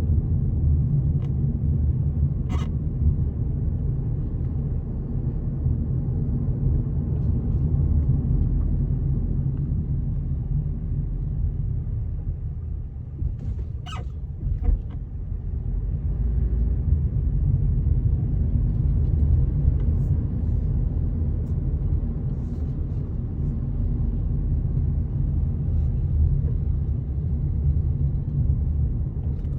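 Steady low outdoor rumble, with a brief sharp click about two and a half seconds in and another about fourteen seconds in.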